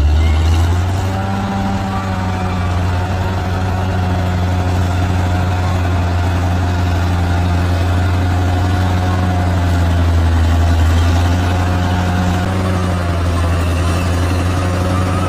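Large bulldozer's diesel engine running steadily, a deep continuous engine note with a slight rise and fall in pitch.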